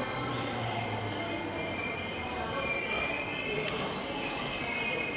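E231 series electric train starting to pull out. High-pitched squealing tones rise slowly and grow stronger from about two seconds in, over a low hum that fades early on. A single sharp click comes just past the middle.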